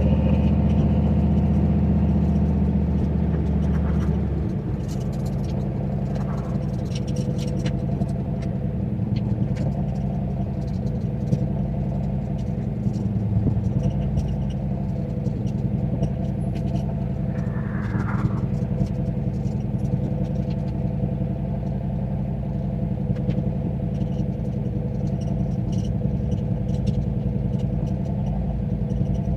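Turbocharged 351 Windsor V8 in a Fox-body Mustang running steadily. It is louder and deeper for the first four seconds or so, then holds an even, lower level.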